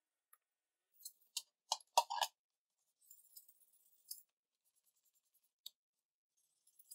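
Small hard parts clicking and clinking as they are handled: a quick run of clicks about a second in, a brief scratch, then two more single clicks.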